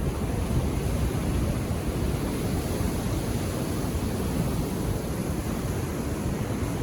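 Ocean surf washing on a beach as a steady, even rush, with a low rumble of wind on the microphone.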